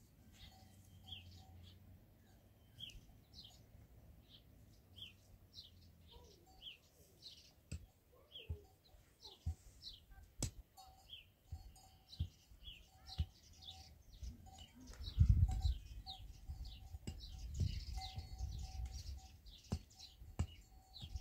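Small birds chirping over and over, short high downward-slurred chirps. About two thirds of the way in come several low rumbles, the loudest sounds here.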